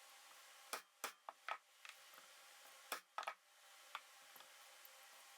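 A handful of light, sharp metal taps at irregular intervals, a couple of them close together near the middle: a throttle-shaft bearing being tapped into an RB26 individual throttle body through a socket until it seats flush.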